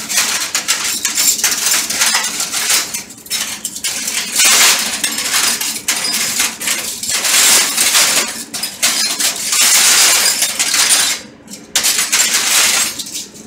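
Stainless steel spoons and forks clattering and clinking continuously as they are rapidly picked up and sorted on a steel counter, with a brief lull about eleven seconds in.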